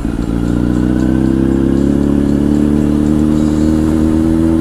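Honda CBR1000's inline-four engine, fitted with a Two Brothers exhaust, pulling under acceleration, its pitch rising slowly and steadily.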